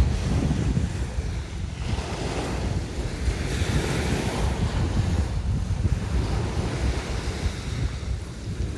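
Sea waves washing on the shore, one swelling and falling back a few seconds in, with wind buffeting the microphone as a low rumble.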